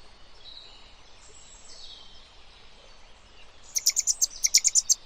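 Faint high chirping of birds, then near the end a quick run of about a dozen sharp, high clicking chirps, about ten a second.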